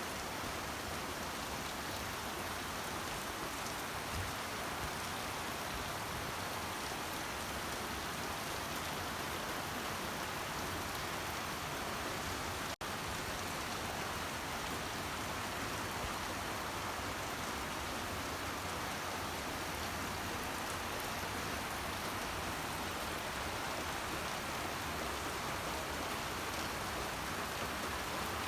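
Steady heavy rain, an even hiss that holds at one level throughout, broken by a split-second dropout about halfway through.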